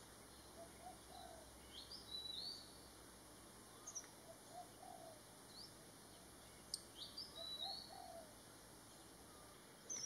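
Faint background bird calls: a high call that rises and then holds, heard twice, and low soft notes in short groups of two or three, repeating every few seconds, with a couple of brief clicks.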